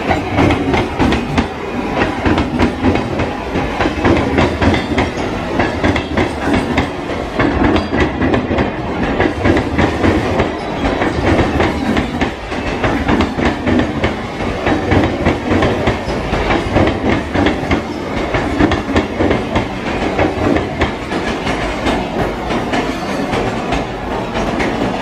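Western Railway suburban electric multiple unit (EMU) local train running past close by, its wheels clattering steadily over the rail joints with a continuous rumble.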